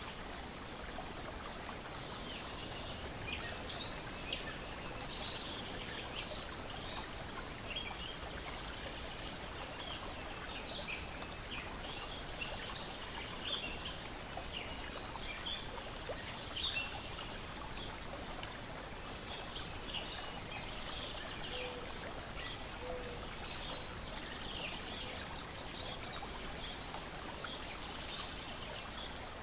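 Steady wash of lake water lapping at the shore, with many short bird chirps and calls scattered throughout.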